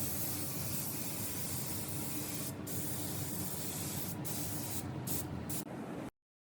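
Paint spray gun spraying steadily, with a few brief breaks, then cutting off about six seconds in.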